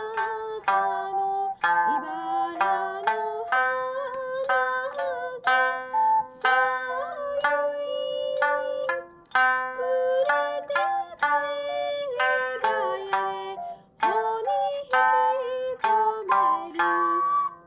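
Sanshin, the Okinawan three-stringed lute, plucked in a lively folk melody, a few notes sliding in pitch.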